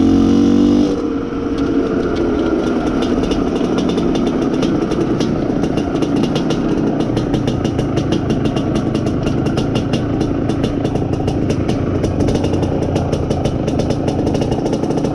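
IZh Planeta Sport's single-cylinder two-stroke engine running under way while the new engine is being run in. Its loud note drops about a second in, then it runs steadily.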